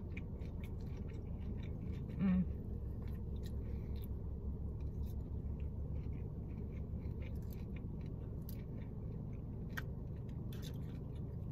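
Chewing and eating sounds: scattered small wet clicks and smacks from a mouth working on food, over a steady low hum. A brief hummed voice sound about two seconds in.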